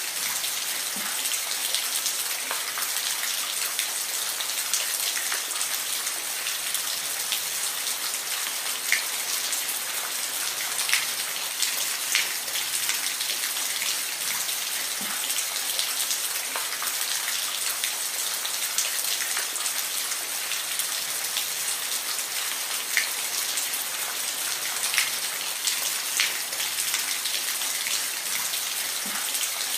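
Steady rainfall, a constant hiss with individual drops ticking sharply here and there.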